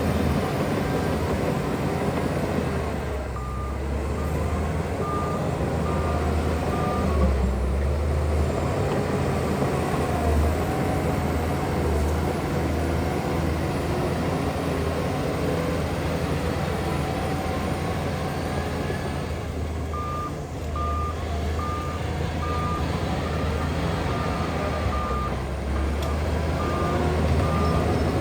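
Heavy diesel earthmoving machinery running steadily, with a reversing alarm beeping in a regular series for a few seconds near the start and again through the last third.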